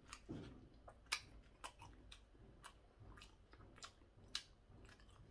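Faint eating sounds from a mouthful of crunchy stir-fried pork cartilage being chewed, with about ten sharp, irregular clicks and crunches.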